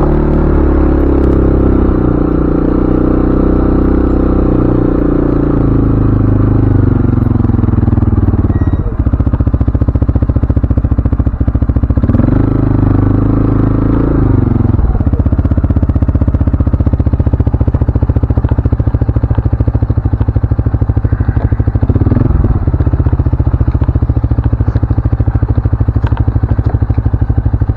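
CFMoto ATV engine running under way, its pitch rising and falling a few times with the throttle.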